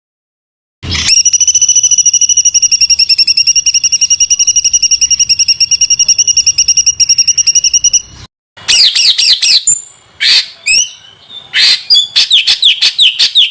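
Recorded songbird song used as a training 'master' for cage birds: after a short silence, a long, very fast, rough trill held on one pitch for about seven seconds, stops abruptly, then comes back after a brief gap as bursts of rapid down-slurred notes.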